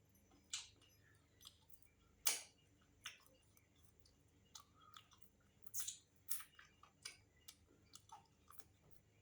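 Close-miked eating sounds: chewing with irregular wet mouth smacks and clicks, the loudest a little over two seconds in.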